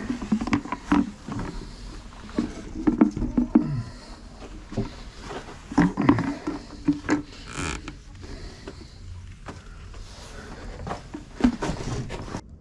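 Chickens clucking and squawking in short, repeated calls, mixed with scattered knocks and clicks. It all cuts off suddenly at the end.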